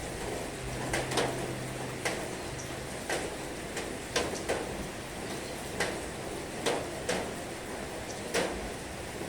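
Heavy rain falling in a steady hiss, with louder single drops striking a surface at irregular intervals, about once a second.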